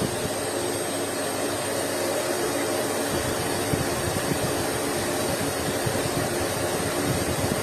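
Severin vacuum cleaner running steadily: an even motor whine over a rushing airflow hiss.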